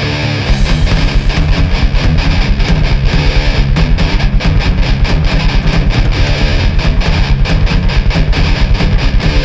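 Hardcore punk band playing an instrumental passage: a distorted electric guitar riff, then drums and bass come in with a fast, driving beat about half a second in.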